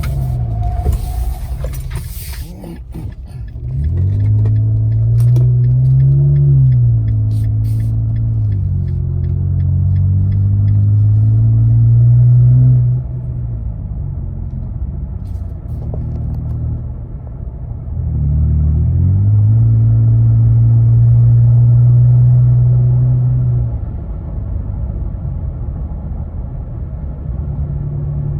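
Nissan Frontier's 3.8-litre V6 exhaust climbing in revs and holding a steady low drone, twice, dropping back to a lower note in between.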